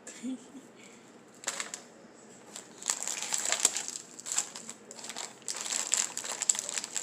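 Plastic snack wrappers crinkling as packets are picked up and handled, in irregular bursts starting about a second and a half in and growing busier after about three seconds.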